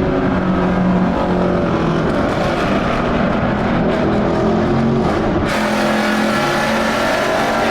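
Car engine running loud under acceleration while driving, its tone shifting up and down; about five and a half seconds in a brighter rushing hiss joins it.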